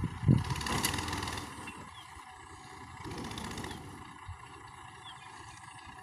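Vehicle engine noise, loud and rough for the first second and a half, then dropping to a quieter low rumble.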